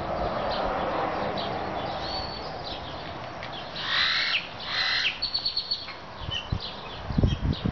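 Birds calling with many short high chirps, and two loud, harsh caw-like calls about four and five seconds in, followed by a quick run of high notes. A few low thumps near the end.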